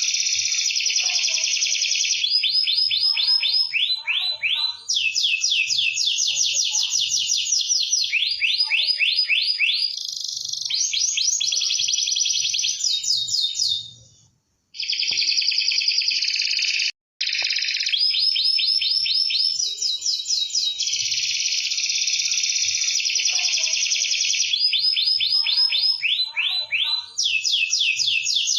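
Domestic canary singing a continuous high song of fast trills and rolls, one rolling phrase running straight into the next, with two short breaks about halfway through.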